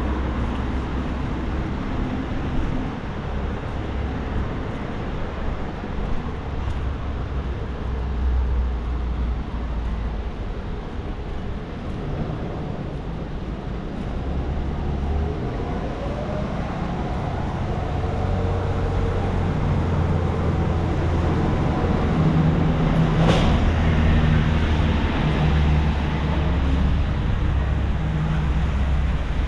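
Wet city street traffic: vehicle engines running and passing over a steady hiss of rain and tyres, with one brief sharp noise late on.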